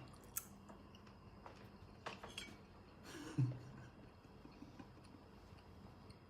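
Soft mouth sounds of someone eating octopus tentacle: a few faint wet smacks and clicks, with one louder low smack about three and a half seconds in.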